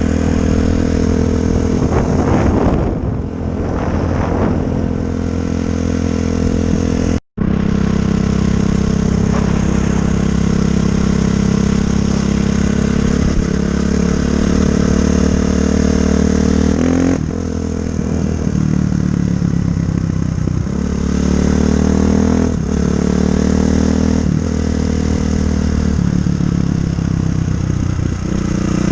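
2004 Honda CRF450R dirt bike's single-cylinder four-stroke engine running, its speed rising and falling several times with steadier stretches in between. The sound breaks off completely for a moment about seven seconds in.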